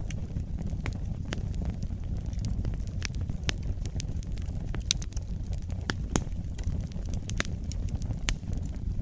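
Wood fire in a fireplace crackling: irregular sharp pops and snaps, a few louder ones about five and six seconds in, over a low steady rumble of the burning flames.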